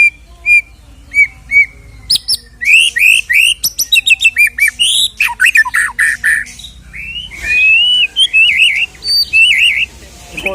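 White-rumped shama (murai batu) singing. A few evenly spaced whistled notes open the song, then it breaks into a rapid, varied run of sweeping chirps and trills, with a long warbling phrase near the end.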